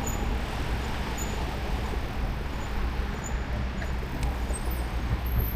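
Steady wind rush on the microphone and tyre noise from a moving e-bike, a continuous deep rumble with hiss over it.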